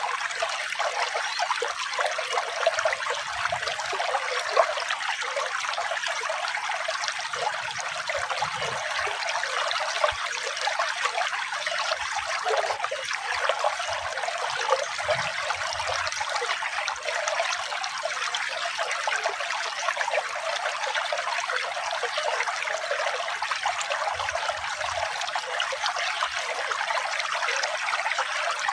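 Water trickling and splashing in a steady, unbroken flow, bright and light with no deep rush.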